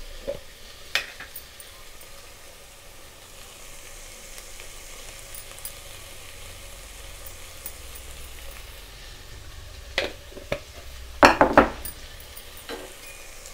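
Mixed vegetables cooking in a steel pot, a faint steady sizzle, with a few sharp clinks and a louder run of clinking near the end as salt is spooned in from a jar.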